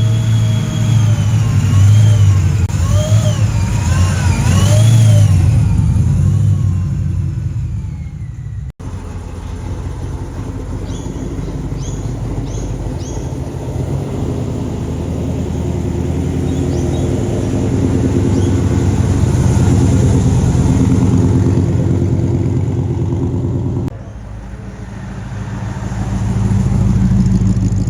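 Car engines rumbling and revving, in several short clips cut together, the V8 sound of Australian muscle cars.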